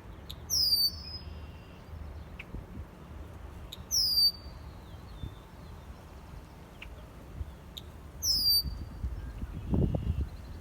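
Red-winged blackbird singing three times, about four seconds apart, each song a sharp, high, falling whistled phrase. Faint short chip notes come between the songs, and a low rumble rises near the end.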